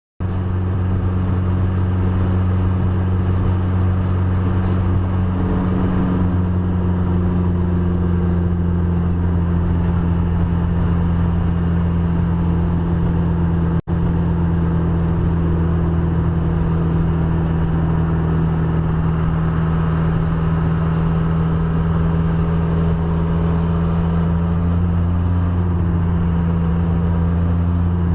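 Steady engine and road noise of a vehicle driving at a constant speed. There is a brief break about halfway through.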